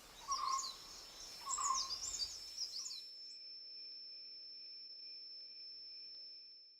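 Small birds calling with short up-and-down chirps for about three seconds, then a steady high-pitched insect whine holding one pitch.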